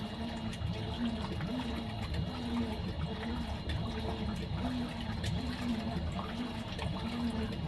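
Fisher & Paykel SmartDrive top-loading washing machine agitating a load. Its direct-drive motor whines up and down in a quick, even rhythm, with water sloshing in the tub.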